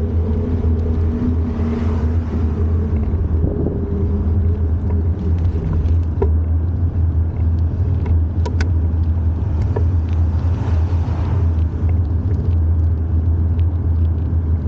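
Wind buffeting the microphone while cycling: a steady, loud low rumble. A faint hum fades out in the first few seconds, and a few sharp clicks sound now and then.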